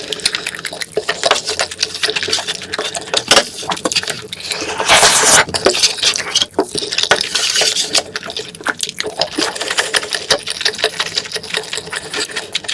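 Close-miked eating sounds: wet chewing with rapid, irregular clicks and smacks of the mouth, and a louder noisy burst about five seconds in.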